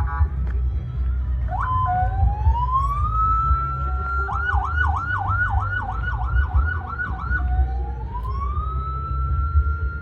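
Electronic siren sounding a rising wail that climbs and holds, switching about four seconds in to a fast yelp for roughly three seconds, then climbing into the wail again. A steady low rumble runs underneath.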